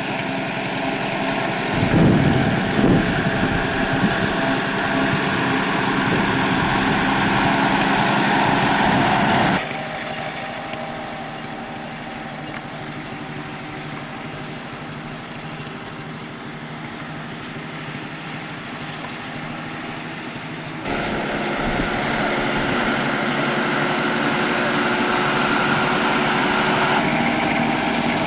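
Small tractor engine running steadily, dropping quieter about ten seconds in and getting louder again about twenty-one seconds in, with a couple of low thumps about two and three seconds in.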